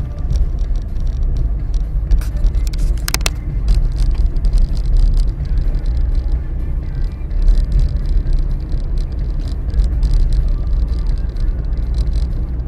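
A car's front suspension knocking while the car turns, with repeated short knocks and a sharp cluster about three seconds in, over a heavy low rumble of road and driving noise.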